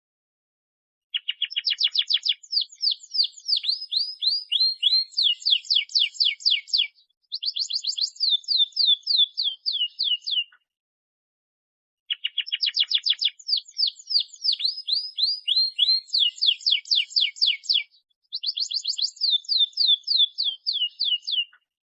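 Domestic canary singing long, rapid trills: strings of fast, repeated high sweeping notes, changing from one trill to the next. Two near-identical song bouts of about nine seconds each, separated by a pause of about a second and a half.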